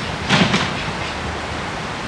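Freight train moving away: one clack of its wheels over a rail joint about a third of a second in, the last of a run of such clacks, over a steady rushing noise.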